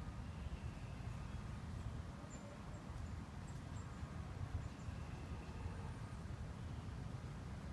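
Faint outdoor ambience: a steady low rumble with a few faint, short high-pitched bird chirps, most of them about two and a half to four seconds in.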